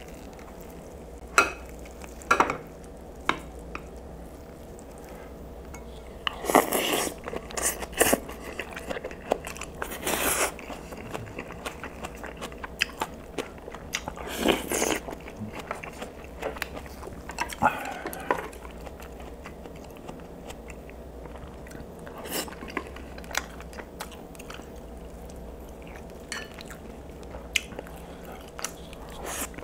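Close-miked eating sounds: chewing and biting mouthfuls of braised kimchi and mackerel with rice, with scattered clicks of a wooden spoon and chopsticks against the dishes. Several louder wet bursts of chewing stand out among the quieter chewing.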